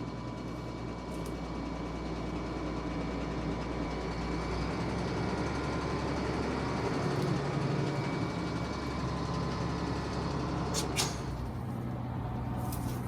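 Truck engine idling steadily, with one sharp metallic clank about eleven seconds in.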